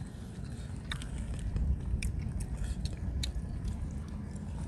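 Close-up chewing and biting of crunchy grilled squid, scattered soft clicks over a low steady rumble.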